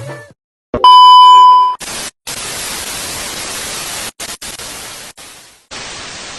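A loud, steady electronic beep lasting about a second, then a hissing, static-like noise that cuts off and starts again several times.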